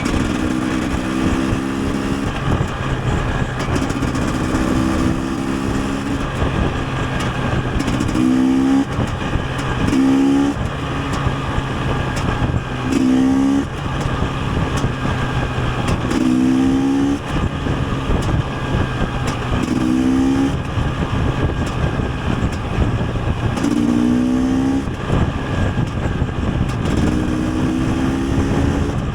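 KTM 250 EXC TPI single-cylinder two-stroke engine being ridden, its pitch climbing again and again every few seconds as the rider accelerates and then backs off, over a steady rush of road and wind noise.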